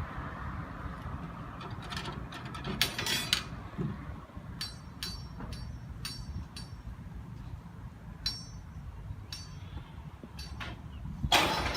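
A low steady rumble with about a dozen sharp metallic clinks scattered irregularly over several seconds.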